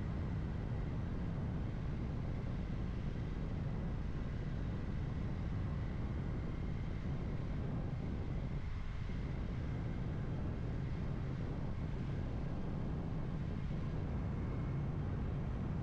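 Kawasaki Ninja 400 parallel-twin engine running at a steady cruise, mixed with steady wind noise on the microphone while riding.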